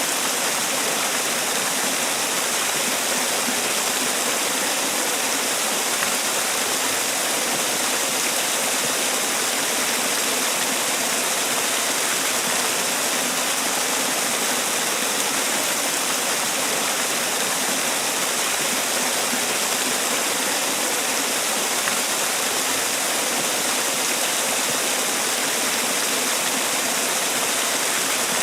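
Man-made waterfall: water falling and splashing in a steady, even rush, with a hiss weighted toward the high end.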